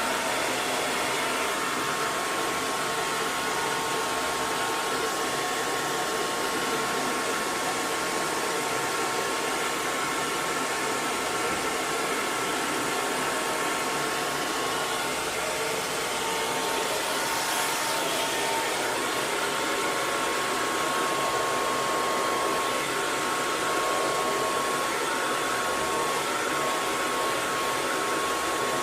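Hair dryer blowing steadily: a continuous airy rush with a constant motor whine.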